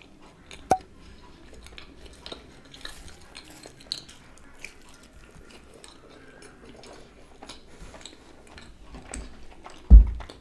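Close-miked chewing of a mouthful of cheese pizza: soft wet mouth noises and small clicks. There is a sharp click about a second in and a single loud, dull thump near the end.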